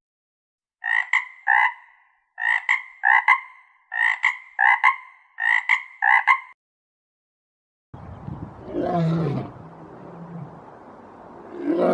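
An animal call made of short notes, repeated about a dozen times in quick pairs and threes over some five seconds. After a pause, a deeper, louder animal call with falling pitch begins near the end.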